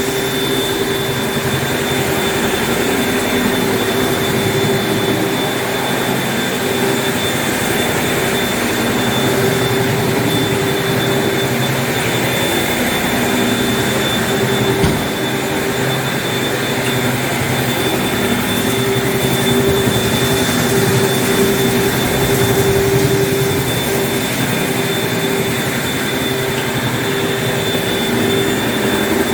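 Floor-cleaning machine's motor running steadily, a loud drone with a constant hum and a thin high whine.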